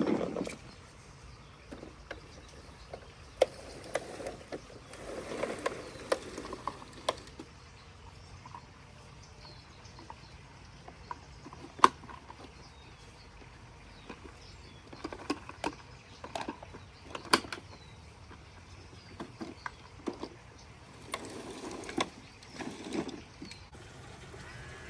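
Plastic toy garbage truck and bins being handled: scattered sharp clicks and knocks, with a few short rustling bursts.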